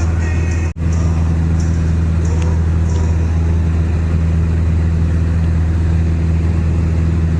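A small plane's piston engine and propeller drone steadily in flight, heard from inside the cabin. The sound cuts out for an instant less than a second in.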